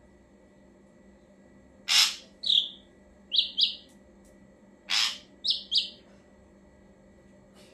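Ashy drongo singing the same phrase twice, about three seconds apart. Each phrase is a harsh, noisy note followed by three short, clear whistled notes.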